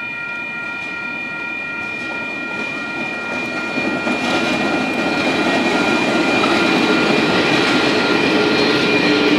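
Level crossing warning alarm sounding steadily while diesel-electric locomotives running light pass over the crossing, their engine and wheel noise building from about four seconds in and becoming the loudest sound.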